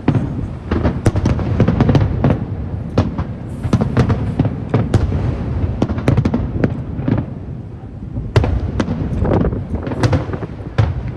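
Aerial fireworks display: shells bursting in a dense, irregular string of sharp bangs over a continuous low rumble.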